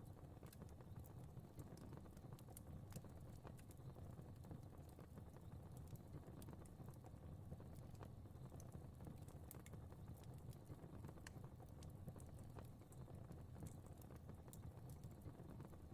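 Faint crackling wood fire: a steady low rumble of flames with small, sharp crackles and pops coming irregularly, several a second.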